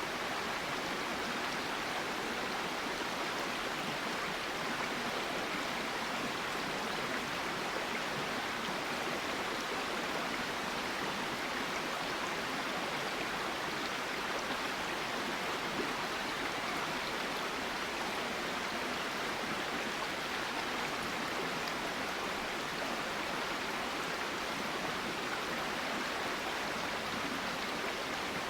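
Steady rush of a flowing river over rocks, an even unbroken water noise.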